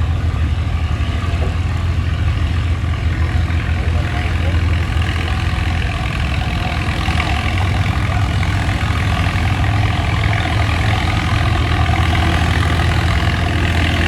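Antique tractor engine running hard and steady while pulling the sled down the track.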